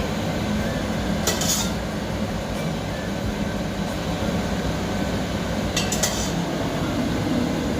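Kitchenware clinking twice, about a second in and again about six seconds in, over a steady low background hum.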